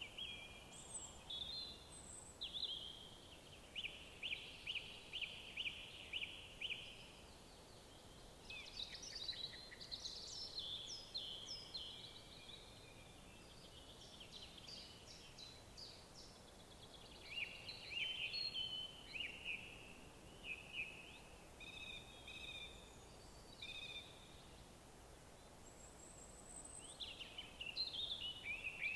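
Songbirds singing in woodland: separate phrases of quick chirps and runs of clear repeated notes, with short pauses between them and one thin high note near the end, over a faint steady hiss of background noise.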